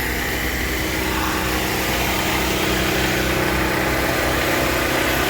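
Small portable generator's engine running steadily.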